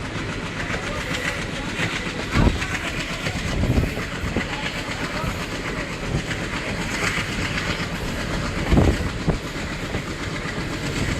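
Train running along the track with a steady rumble and rail clatter, and a few louder knocks from the wheels, about two and a half seconds in, near four seconds and near nine seconds.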